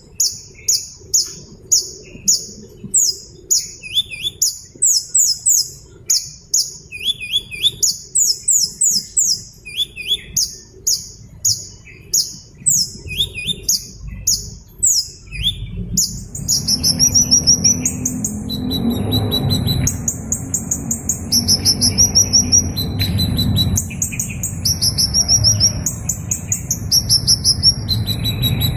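A small bird chirping in rapid, very high-pitched series of quick falling notes, about two bursts a second. About halfway through, a steady low background noise comes in under the chirping.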